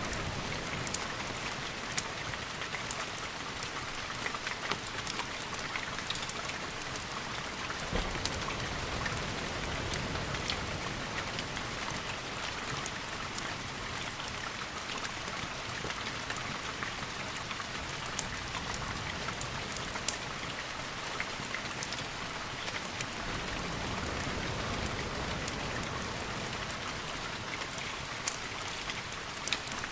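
Steady recorded rain, an even hiss sprinkled with many sharp ticks and pops, with a low rumble swelling briefly about three-quarters of the way through.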